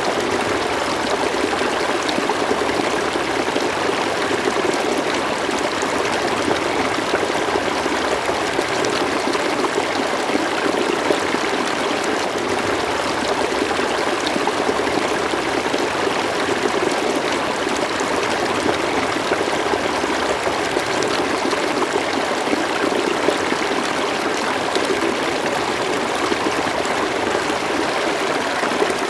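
River water flowing steadily, an even rushing and gurgling with no change in level.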